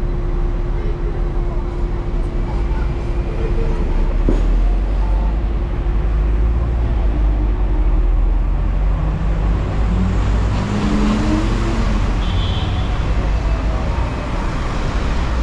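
Hong Kong double-decker tram running: a steady low rumble, with a steady hum that stops about eight seconds in. Faint voices come and go.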